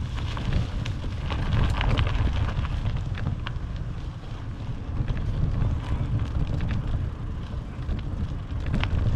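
Wind buffeting a GoPro Hero 8's microphone during a bicycle ride: a steady low rumble, with scattered light clicks and rattles over it.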